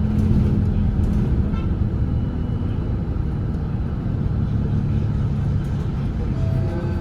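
Volvo B8RLE double-decker diesel bus running under way, heard from inside the cabin: a steady low engine drone mixed with road noise.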